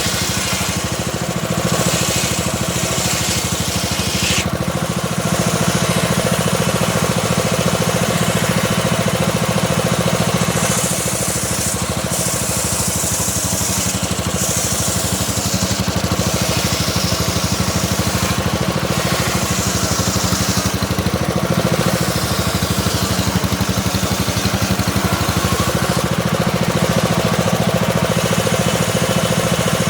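Homemade circular saw rig running steadily under power while its blade slowly rips a small teak log. A constant low machine drone underlies a higher cutting noise that grows and fades several times as the blade works through the wood.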